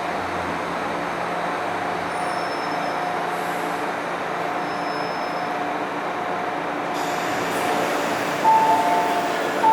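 Interior of an MTR M-Train electric multiple unit running between stations: steady rolling and traction noise with a faint steady whine. Near the end, a two-note chime, high then lower, sounds and starts again.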